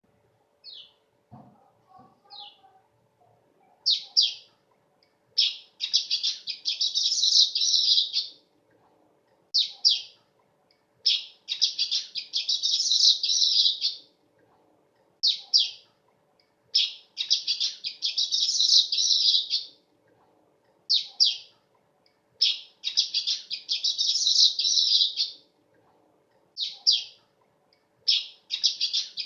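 Weaver bird (manyar) singing: the same phrase repeats about every five to six seconds, a few short high chips followed by a long, dense, buzzy chattering trill lasting about two seconds.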